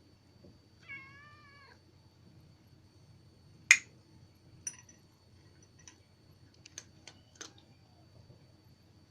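A cat meows once, a wavering call about a second long, followed a couple of seconds later by a loud sharp click and a few shorter, fainter sharp sounds.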